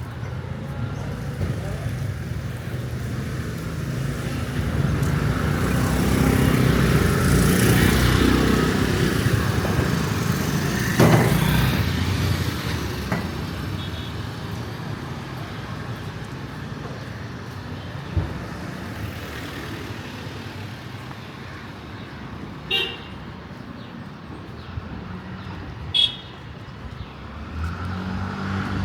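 Street traffic: a motor vehicle passes close by, building up and fading away, and short horn toots sound twice near the end.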